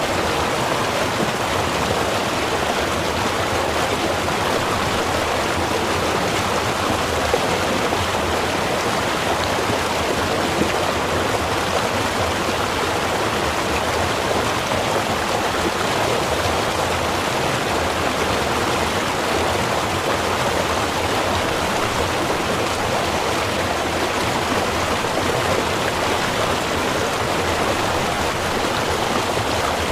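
Small river or stream running steadily over stones: a constant rushing and burbling of water.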